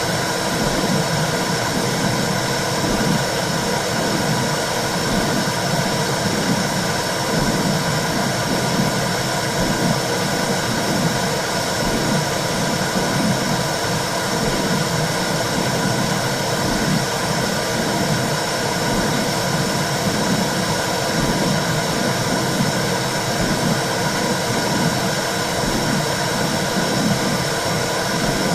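Womb-sound soothing noise: a steady whooshing hiss with a low, even pulse about once a second, like a mother's heartbeat heard from inside the womb.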